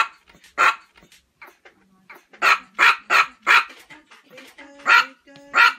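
Chihuahua barking in short, sharp yaps, about eight of them in irregular bunches, with a quick run of four in the middle.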